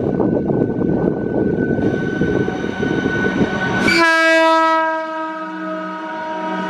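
A WAG-12B electric freight train runs by with a dense rumble and clatter, its horn sounding as a steady tone. About four seconds in, the train sound cuts off suddenly and a sustained chord of background music takes over.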